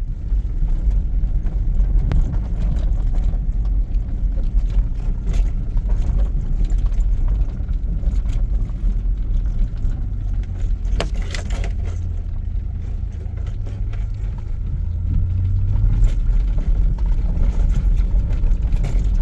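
Strong gusting wind buffeting the microphone as a heavy, fluctuating low rumble, with scattered knocks and rattles.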